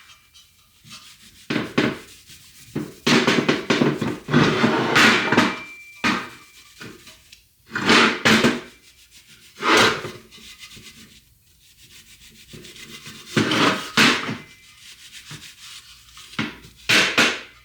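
Scotch-Brite abrasive pad scrubbing the bearing and seal surfaces of a Toyota front hub part, in about ten irregular strokes with short pauses between them, cleaning up the metal before the new bearings and seal go on.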